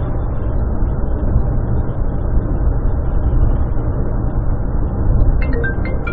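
Steady low rumble of a moving car's engine and road noise, as picked up by a dashcam's microphone. Near the end, a few high musical notes come in over it.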